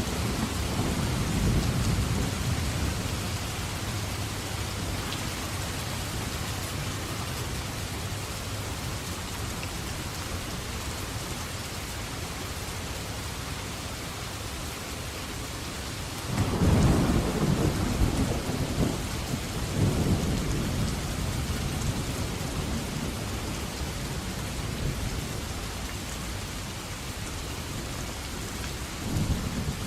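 Thunderstorm: heavy rain falling steadily, with rolls of thunder rumbling low. The loudest peal comes about halfway through and rolls on for several seconds, and a shorter rumble comes near the end.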